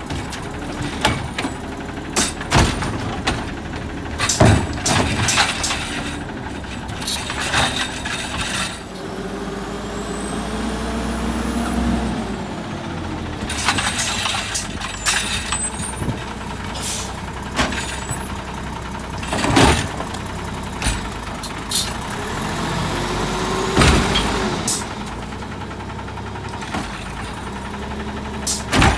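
Garbage truck running as it collects recycling. A hydraulic whine rises and falls twice, over a steady engine drone, and there are repeated loud bangs and clanks as bins are lifted and emptied.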